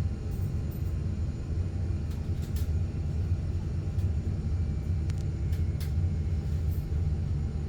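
Volvo B5 bus under way, heard from on board: a steady low drivetrain rumble with a few faint light rattles.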